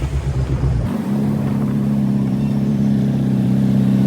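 Suzuki Hayabusa's inline-four engine pulling under throttle as the bike picks up speed. About a second in it settles into a steady note that slowly grows louder.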